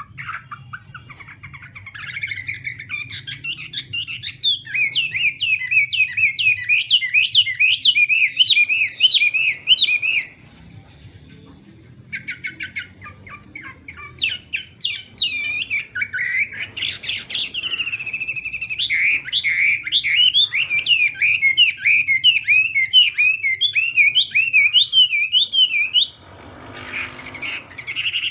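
Chinese hwamei singing: long phrases of rapid, repeated whistled notes, breaking off about ten seconds in and starting again a couple of seconds later. A faint steady low hum runs underneath.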